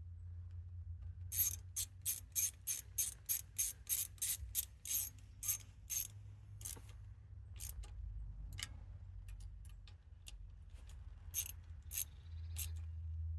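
Hand ratchet clicking: a quick even run of about fifteen clicks, roughly three a second, then a few scattered single clicks near the end.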